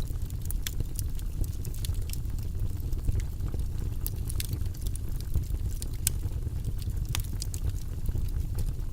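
Wood fire burning in a fireplace: a steady low rush of flame under frequent sharp crackles and pops, a few of them louder.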